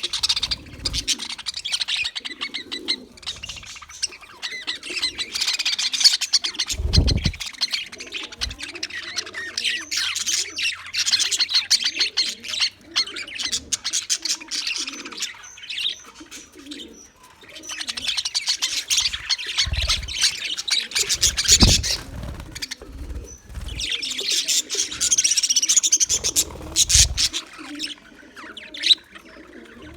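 English budgerigars chattering and warbling in fast, continuous streams of high chirps and squawks, pausing briefly twice. A few low thumps sound under the chatter.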